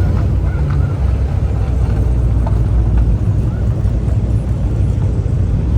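A car's steady low rumble, even throughout with no rise or fall in pitch.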